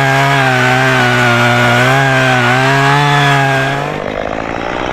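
Chainsaw held at full throttle cutting through an oak limb, its pitch sagging slightly as the bar loads in the wood, then the throttle released about four seconds in.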